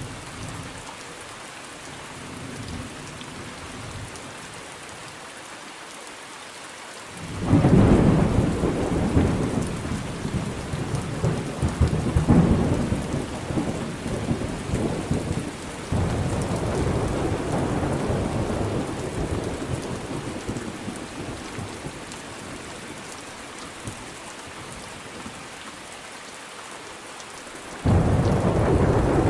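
Steady rain with thunder. A loud thunderclap breaks in about a quarter of the way through and rumbles on, swelling again several times before dying away. Another loud clap starts near the end.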